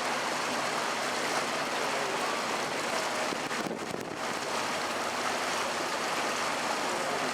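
Steady rushing of water along the hull of a canal tour boat under way, with the boat's engine running beneath it. The hiss briefly thins about four seconds in.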